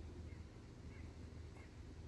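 Faint outdoor ambience: a low steady rumble of wind on the microphone, with three faint short chirps evenly spaced about two-thirds of a second apart.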